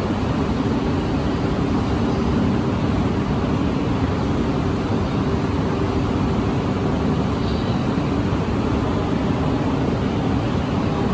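Shinkansen train running steadily: an even rumble with a low hum that holds the same level throughout.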